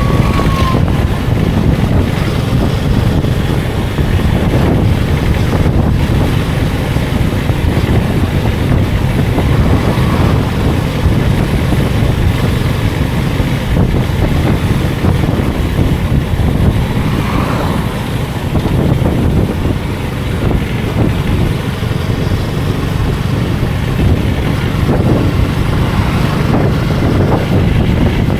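Motorcycle engine running steadily while riding, a dense low rumble, with wind rushing over the microphone.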